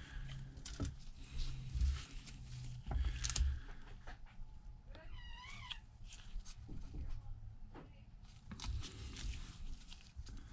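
Scattered small clicks and taps of precision tools handling an iPad screen assembly on the bench, over a low steady hum. About halfway through there is one short, wavering high-pitched sound.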